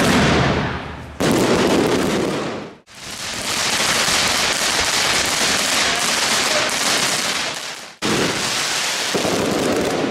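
Fireworks going off in continuous crackling and hissing, from spark fountains and aerial bursts. The sound changes abruptly three times as the footage cuts from one display to the next.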